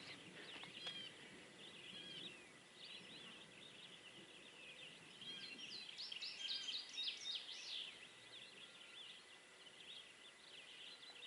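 Faint birdsong: many short, high chirps and sweeps from several birds, busiest in the middle few seconds, over a faint outdoor hiss.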